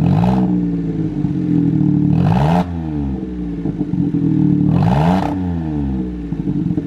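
Smart Fortwo's 1.0-litre three-cylinder engine running with an open header, the exhaust removed. It is blipped three times from idle, each rev rising in pitch and falling back to idle.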